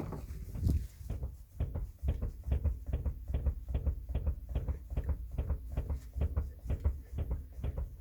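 Rear suspension of a Mercedes-Benz W212 clacking as the back of the car is rocked by hand: a steady run of sharp knocks, about three a second, each with a dull low thud. The knock comes from the top of the rear strut, which the owner suspects is its rubber bump stop and plastic cup, though the struts are new.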